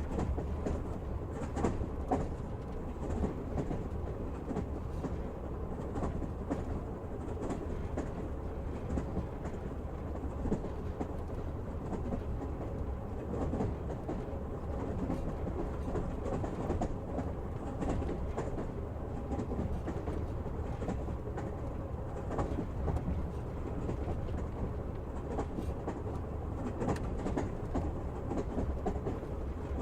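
Passenger train running, heard from inside the carriage: steady low noise of wheels on rails with scattered sharp clicks and knocks.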